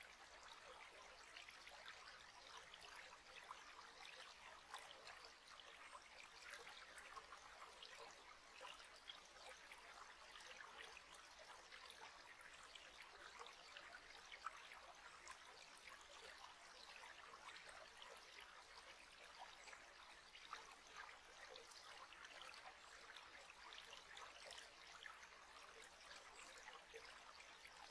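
Faint, steady trickling of running water, like a small stream.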